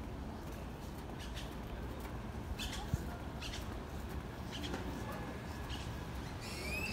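Birds chirping in short high calls several times, with a quick rising call near the end, over a steady low rumble.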